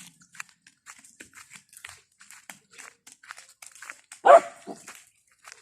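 A dog barks once loudly about four seconds in, with a shorter yelp just after, over faint scattered clicks and crunches.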